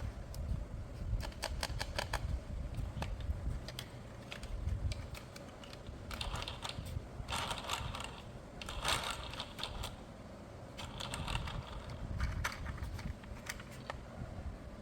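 Hands handling a toy and its packaging: scattered sharp clicks with a few short rustling or scraping bursts.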